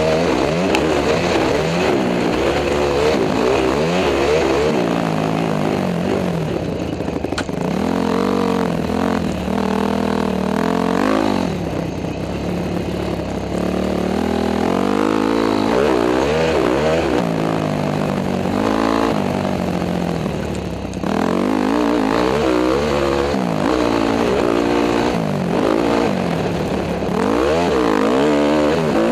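Honda CRF250 dirt bike's single-cylinder four-stroke engine under riding load, heard from the rider's helmet camera. Its pitch climbs and drops over and over as the throttle is opened and closed, with brief let-offs about twelve and twenty-one seconds in.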